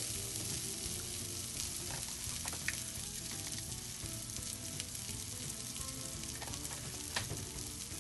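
Liver and kidney tibs with onions and chili peppers sizzling in a cast-iron skillet: a steady frying hiss with a few faint clicks.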